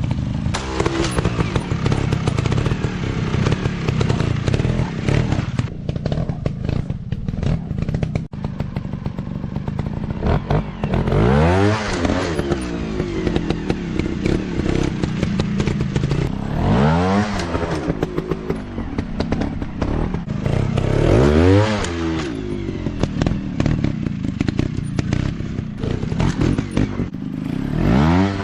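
Small off-road motorcycle engines running continuously, with the throttle opened and closed about four times so the engine note rises then falls in sweeps.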